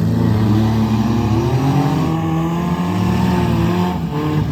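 Several demolition-derby car engines revving at once, their overlapping pitches rising and falling.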